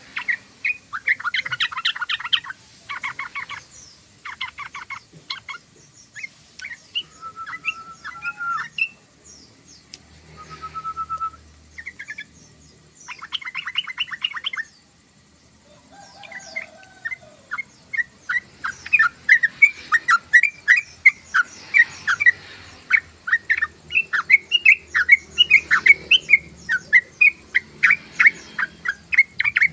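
Yellow-vented bulbul (trucukan) singing: short bursts of rapid rattling trills and a few whistled notes, then from about 18 seconds in a long, louder run of fast chattering calls.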